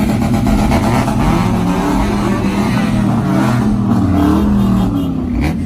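Several car engines running together, their pitches wavering and gliding up and down as they idle and blip the throttle.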